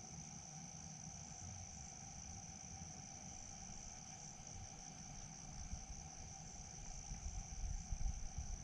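Insects chirring steadily in a high, unbroken band, with a fainter lower drone beneath it. From about seven seconds in, a few low rumbling thumps build up toward the end.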